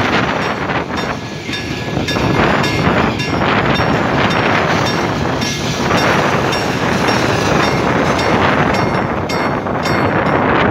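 Mixed freight train wagons rolling past at a level crossing, a steady loud rumble of wheels on rail, with wind buffeting the microphone.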